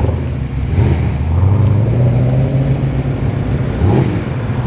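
Car engines running as cars roll past at low speed, with short throttle blips, the engine pitch rising briefly, about a second in and again near four seconds.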